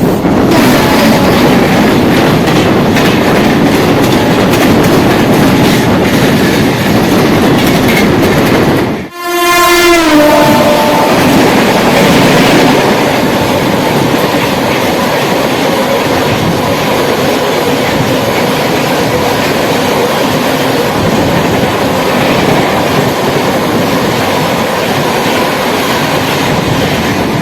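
Express train running past an EMU local on the adjacent track, wheels clattering over rail joints. About nine seconds in, the locomotive's horn sounds for about two seconds, dropping in pitch near its end as it passes.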